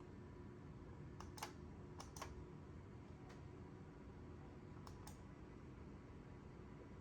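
A handful of faint, sharp clicks from a computer being operated, some in quick pairs, over near-silent room tone.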